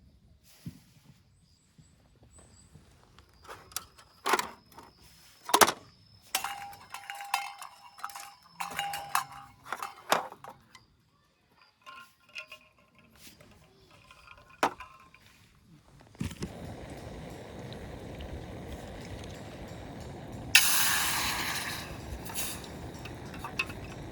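Metal cookware clinking and knocking as it is handled, several strikes leaving short ringing tones. About two-thirds of the way through a steady hiss starts, with a brief louder rush near the end.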